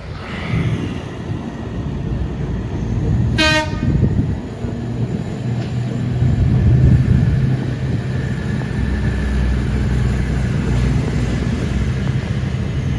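Train horn sounding one short blast, then a train rumbling steadily past with a low engine drone that swells about seven seconds in.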